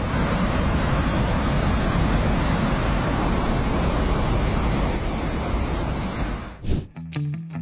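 Steady rushing rumble of an earthquake-triggered landslide, heavy in the low end. About seven seconds in it cuts off and plucked guitar music begins.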